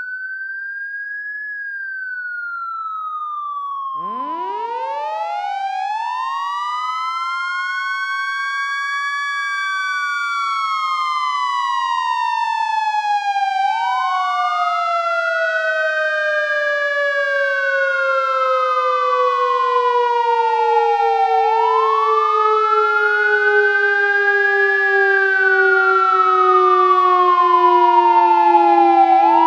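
Fire engine siren wailing, rising and falling slowly about once every seven to eight seconds. About four seconds in, a second siren joins: it winds up steeply like a mechanical siren, then slowly winds down. The whole grows steadily louder.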